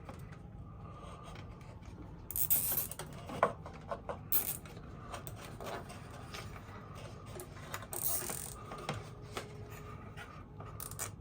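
A nylon zip tie being ratcheted tight around wiring: three short rasping pulls, the first about two seconds in and the last about eight seconds in, with small clicks and handling knocks between them. A low steady hum runs underneath.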